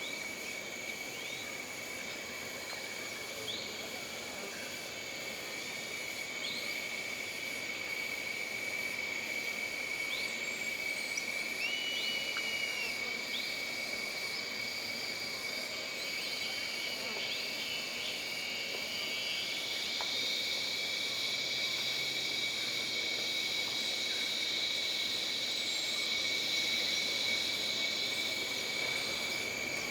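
Jungle ambience: a steady, high-pitched insect drone with a fainter, higher buzz above it, and scattered short chirps and whistles over it. A further buzzing chorus swells in about two-thirds of the way through.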